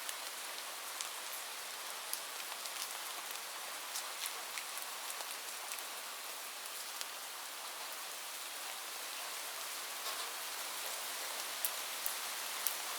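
Steady rain falling on a roof: an even hiss with individual drops ticking sharply here and there, a few louder ones near the end. No thunder.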